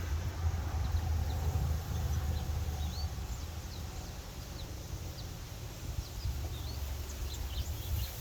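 Wind buffeting the microphone as a steady low rumble, with faint short high-pitched bird chirps scattered through it.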